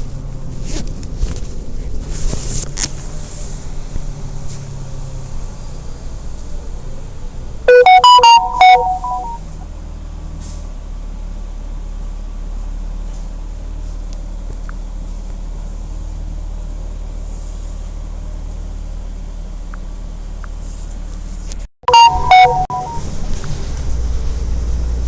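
Inside a city transit bus: the engine rumbles steadily, easing a little and then building again near the end. A loud electronic chime of a few notes sounds twice, about a third of the way in and again near the end.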